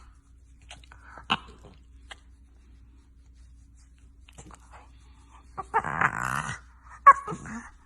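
An animal's vocalizations: a few short sounds, then a longer pitched call about six seconds in, followed by a short one.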